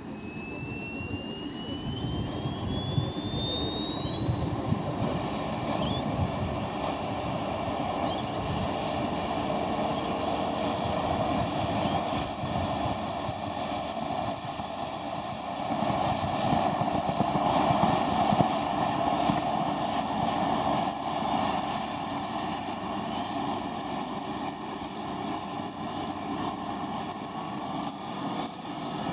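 Wren 44 model gas turbine engine spooling up: a high whine that climbs steadily in pitch the whole time over a rushing jet noise that grows louder through the first half and then holds.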